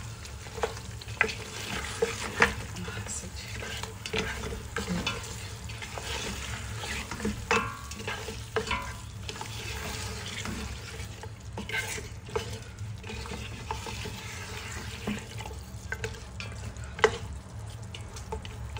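Goat trotters frying in oil and masala in a steel pot, with a spatula stirring and scraping through them and clicking against the pot; a sharper knock comes about 17 seconds in. This is the bhuna stage, with the trotters being browned in the masala.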